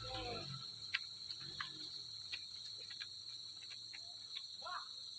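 Steady, faint chorus of insects in high continuous tones, with a few scattered faint clicks.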